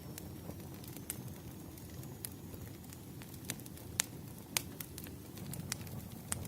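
Wood fire crackling: a steady low rumble of flames with sharp, irregular pops about once a second, the loudest a little past the middle.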